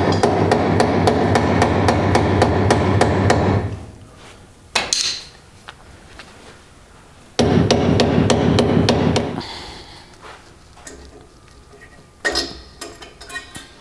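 Impact wrench running in two bursts of rapid hammering, the first several seconds long and the second about two seconds, as fasteners are worked loose. A few sharp metal clinks come near the end.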